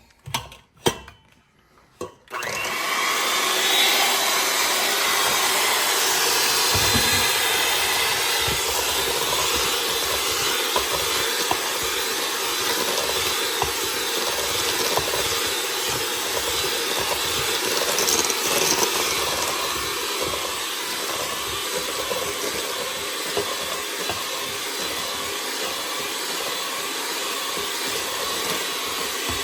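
A few light knocks, then about two seconds in an electric mixer starts and runs steadily with a faint whine, beating an egg into creamed butter and sugar for banana bread batter.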